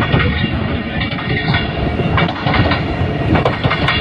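Locomotive 3013 running along the track, heard from the front of the train: a steady rumble, with the wheels clicking irregularly over rail joints and points.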